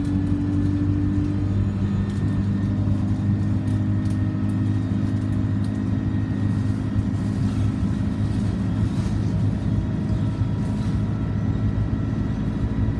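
Alexander Dennis Enviro200 single-deck bus heard from inside the cabin while on the move: a steady engine drone with a low hum and road noise, with faint rattles here and there.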